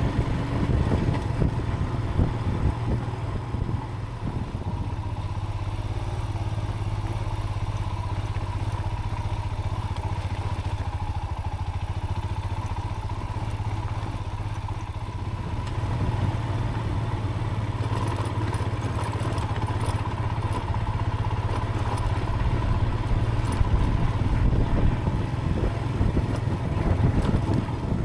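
Motorcycle engine running steadily while riding a rough dirt track, heard from a helmet chin-mounted camera, with scattered light rattles. The engine gets a little louder about halfway through.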